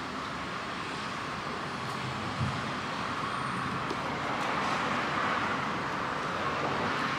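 Steady vehicle noise, an even hiss-and-rumble of running machinery that swells slightly in the second half, with one faint knock about two and a half seconds in.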